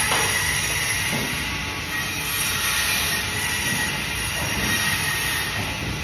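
Band saw running steadily with its blade cutting through fish, a continuous hiss with a thin high whine.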